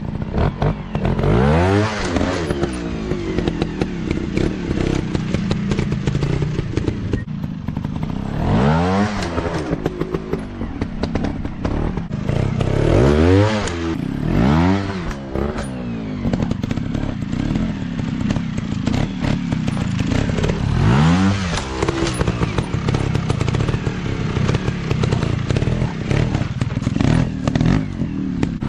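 Dirt bike engines running with the throttle blipped over and over, the pitch swooping up and falling back several times, with knocks and clatter from the bikes working over rough ground.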